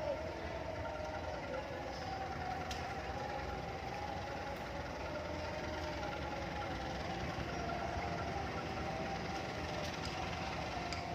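Steady running of vehicle engines, with a wavering hum and no sudden events.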